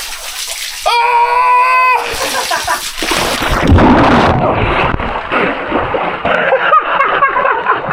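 A man's held shout about a second in, then a loud splash of a body plunging into cold pool water, followed by sloshing and gasping voices.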